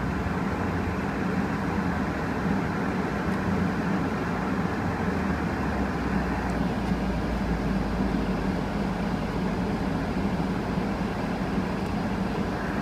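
2008 Ford Fusion's 2.3-litre four-cylinder engine running steadily at an even speed, with no revving. It runs smoothly: a good runner.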